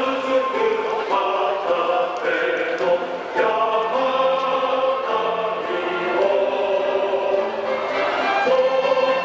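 A choir singing a slow song in sustained chords, with musical accompaniment. It is typical of the winning school's song played at the end of a Japanese high school baseball game.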